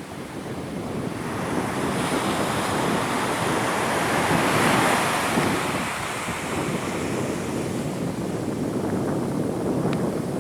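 Surf washing onto a beach, with wind buffeting the microphone. The rushing swells to a peak about halfway through, then eases.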